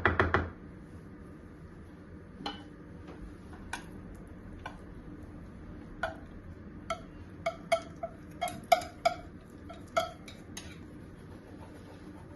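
Dishes and cutlery clinking as they are handled: a short louder clatter at the start, then a dozen or so light, irregular knocks with a brief ring.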